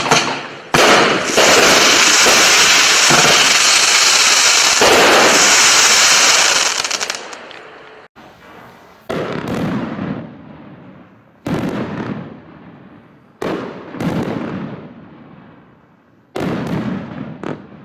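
Display fireworks from a pack of cakes and barrages. A dense, rapid salvo of bangs and crackles with a hiss runs for the first several seconds and dies away, then single loud shots burst every couple of seconds, each trailing off.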